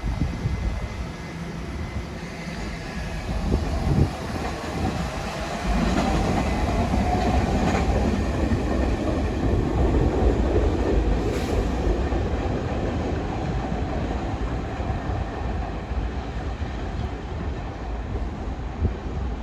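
New York City subway train running on the tracks past the platform: a steady rumble with wheels clattering over the rail joints, growing louder about six seconds in.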